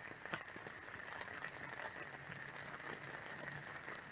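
Rain falling steadily, with many scattered ticks of drops hitting surfaces.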